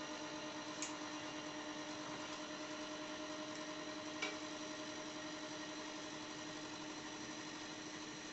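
Silent air compressor running with a steady, quiet hum. There is a small click about a second in and a sharper tick around four seconds in.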